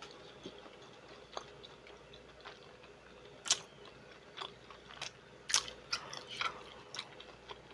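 Close-up eating sounds: chewing and biting, with scattered wet mouth clicks and smacks, two of them louder about three and a half and five and a half seconds in.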